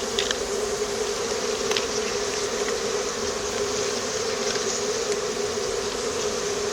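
Honeybees buzzing steadily from an opened hive being inspected frame by frame, a continuous hum with a few faint ticks.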